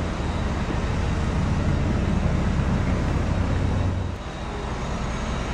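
BMW 535i's turbocharged 3-litre inline-six idling, heard at the exhaust tips as a steady low rumble that eases off about four seconds in.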